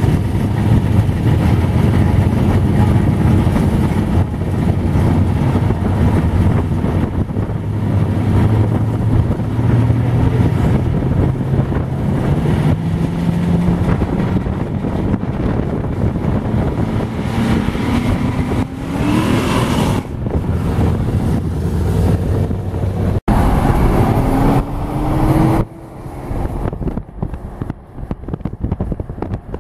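Ford Mustangs' engines running as the cars cruise past: a steady low engine drone that slowly climbs in pitch, then rises quickly as a car accelerates, about two-thirds through and again after a brief break. The sound turns quieter near the end.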